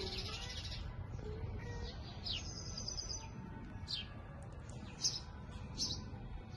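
Small songbirds chirping: short, high, down-slurred chirps about once a second, with a brief rapid trill about two and a half seconds in, over a low steady outdoor rumble.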